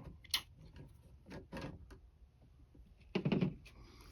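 Handling knocks from a camper window and its frame being worked into place: a sharp click, a few soft taps, then a louder short clatter of knocks near the end.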